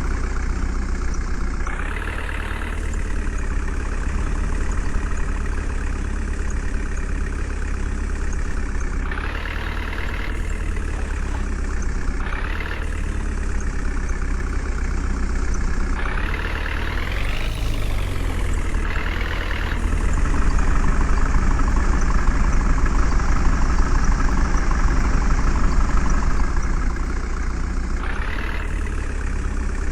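JCB backhoe loader's diesel engine running steadily, revving up briefly several times, with a louder stretch about two-thirds of the way in.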